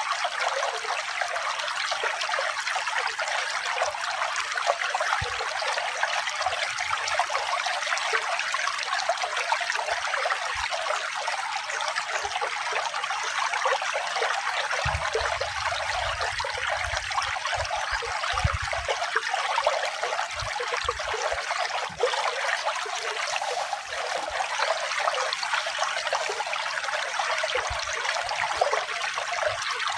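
Running water trickling and splashing steadily, like a small stream or brook, with no music.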